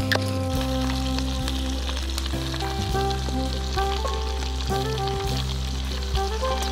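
Snails sizzling in the wells of a hot multi-well pan, with small crackles, under background music that has held bass notes and a stepping melody.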